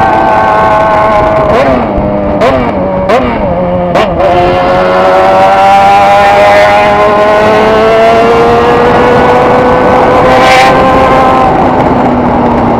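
Motorcycle engine under way, heard from the rider's seat. Its note breaks and dips four times in quick succession in the first four seconds, like gear changes. It then climbs steadily for several seconds as the bike accelerates and settles into a steady run.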